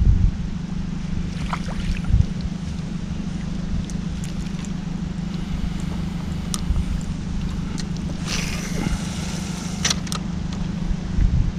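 Boat motor running steadily as a low hum. A short hiss comes about eight seconds in, and a couple of sharp clicks follow soon after.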